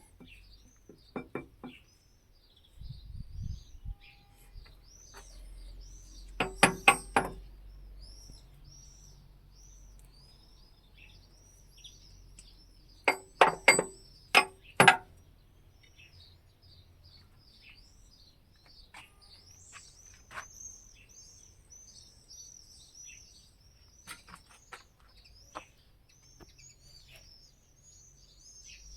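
Small birds chirping continuously in quick, repeated high notes. Over them come three groups of sharp metallic clinks, several strikes each in quick succession with a short ring. The clinks come about a second in, again around six to seven seconds, and again around thirteen to fifteen seconds.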